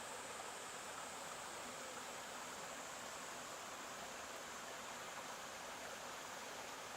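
Stream flowing steadily: an even rushing of water with no breaks or splashes.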